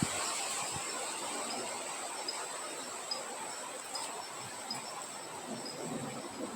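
Wind blowing through foliage as a steady hiss, with a cricket-like insect's continuous high trill and short chirps repeating at a regular pace.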